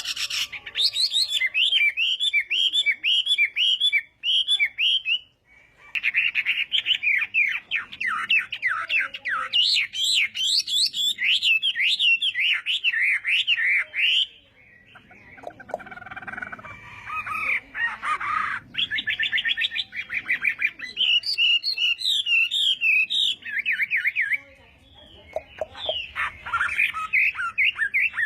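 Chinese hwamei singing: long phrases of fast, repeated, sliding whistled notes, broken by a few short pauses.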